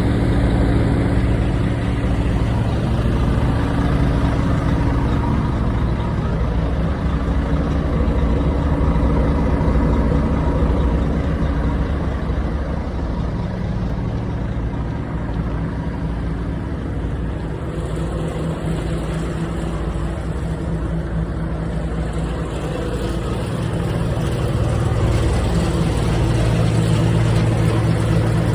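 Diesel engine running steadily on a 2018 Volvo FH540 refrigerated truck. It drops a little in level about halfway through and comes back up near the end.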